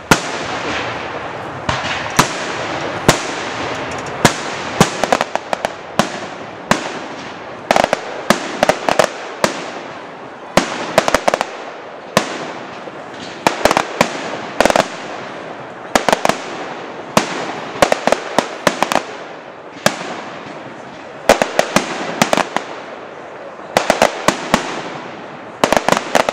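Aerial fireworks bursting in a display: repeated sharp bangs, often in quick volleys of several, over a steady hiss.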